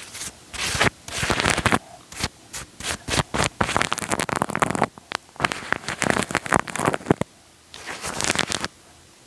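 Wet, sticky crackling and scratching right on the microphone, in dense bursts of sharp crackles, stopping near the end.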